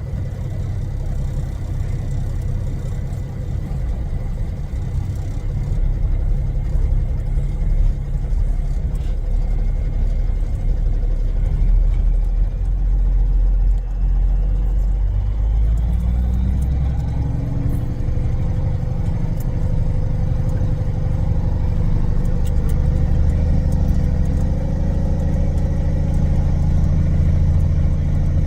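Heavy diesel semi-truck engine running steadily, its note climbing in pitch from a little past halfway as it revs up.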